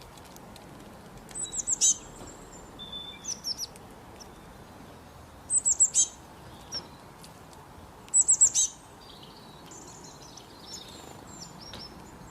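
Small songbirds chirping in quick bursts of short, high, falling notes, three louder bursts and softer calls between them, over a faint steady hiss of outdoor background.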